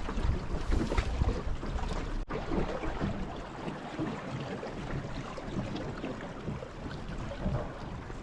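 Steady rushing of a flowing river with wind buffeting the microphone, a noisy hiss without clear tones and a brief dropout about two seconds in.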